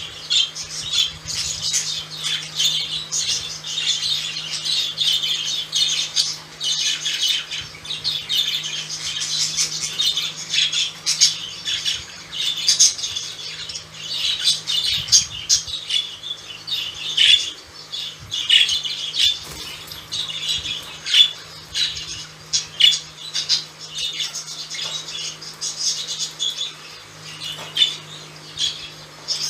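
Budgies (budgerigars) chattering, with a constant stream of rapid chirps, warbles and short squawks.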